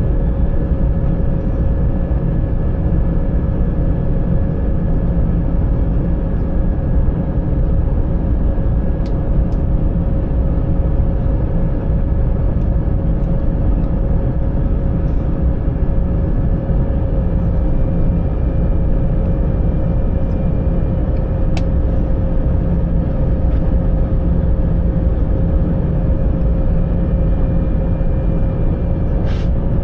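Steady cabin noise of a Wizz Air Airbus A320-family jet airliner in flight: an even drone of the engines and rushing air, with a steady hum tone over it and a few faint ticks.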